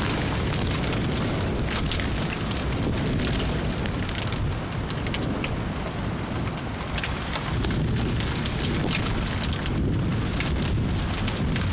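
Heavy rain pouring down steadily during a thunderstorm, with gusty wind adding a deep rumble underneath.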